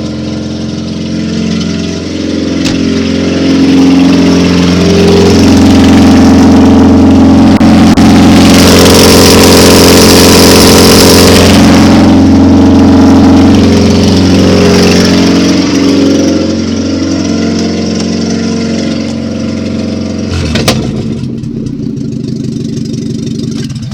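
Lada 21099 Samara engine running with no muffler: idling, then revved up and held at high revs for about ten seconds before settling back to idle. A single sharp crack comes near the end.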